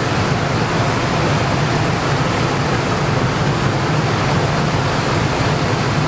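Steady, even rushing of a large fan blowing air, with a low hum under it.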